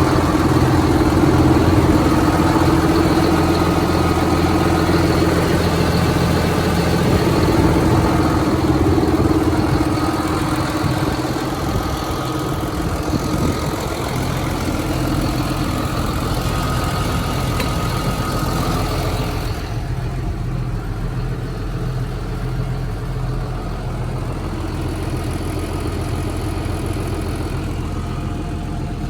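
John Deere 7530 tractor's six-cylinder diesel engine idling steadily. About two-thirds of the way through, the higher-pitched part of the sound drops away, leaving a quieter, low engine drone.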